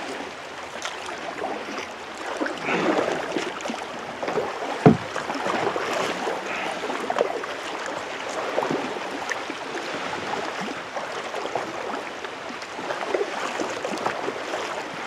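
Kayak paddle strokes splashing and water lapping, in irregular swells, with one sharp knock about five seconds in.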